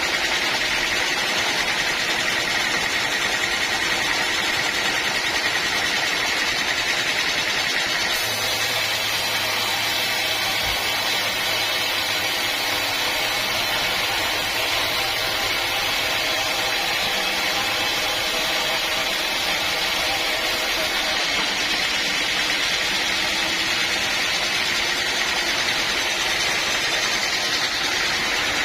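Sawmill machinery running steadily: a dense, continuous mechanical noise with no pauses.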